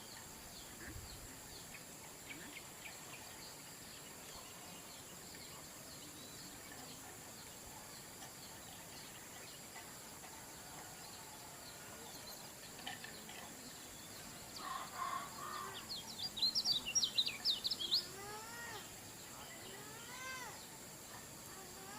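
A kecial kuning, a yellow white-eye, singing. Scattered faint chirps give way to a loud burst of rapid high notes past the middle, then a string of arched, slurred notes near the end, over a steady high hiss.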